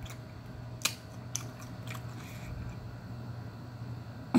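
A person chewing a mouthful of oven-baked supreme pizza close to the microphone, with a couple of sharp mouth clicks about a second in, over a steady low hum.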